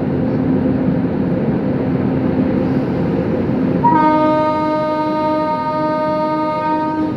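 Locomotive horn sounded by the loco pilot as a signal: one long, steady blast starting about four seconds in and lasting about three seconds, over the constant rumble of the running locomotive.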